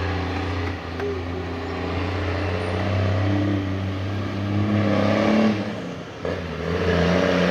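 Heavy truck's diesel engine pulling under load, its pitch climbing as it revs, dipping briefly about six seconds in, then climbing again.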